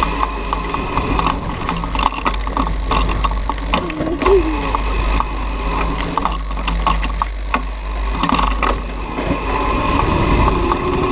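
Razor MX500 electric dirt bike running: a steady electric-motor and chain whine with scattered clicks and rattles.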